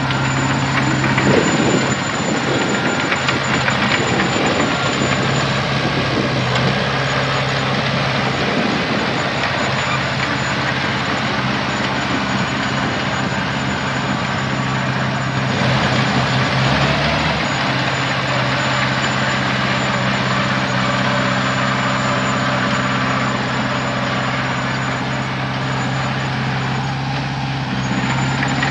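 Heavy diesel earthmoving machinery running steadily, its engine note low and even with a slight change about halfway through.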